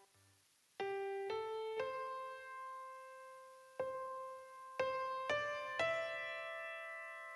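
Slow solo piano music: single notes struck one after another, each left to ring and fade.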